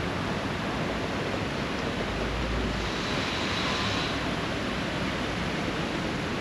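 Steady wash of sea waves on the beach, with some wind; the hiss swells briefly around the middle.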